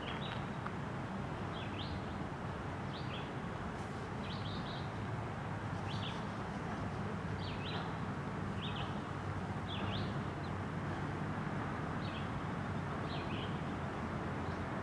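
Freight train's loaded high-sided trash gondolas rolling steadily past in an even rumble, while a bird chirps short calls about once a second.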